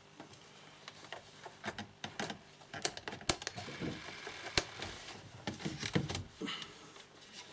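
Irregular sharp plastic clicks and a few duller knocks as a car's instrument cluster is handled and its connectors are plugged in.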